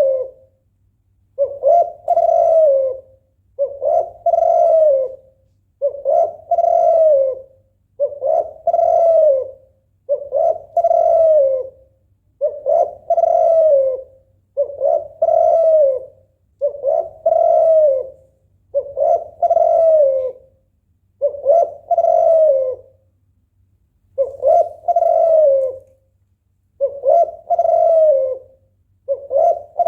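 Spotted dove cooing over and over, one short cooing phrase about every two seconds, over a faint low hum. It is the call of a female in breeding condition, used to rouse a male to sing.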